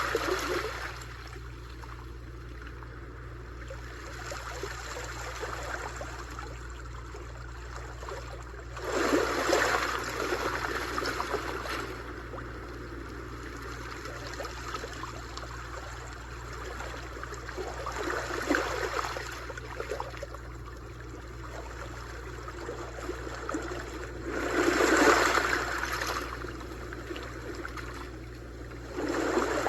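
Sea waves breaking and washing up a shore: a steady wash, swelling into a louder crash every six to nine seconds, four times.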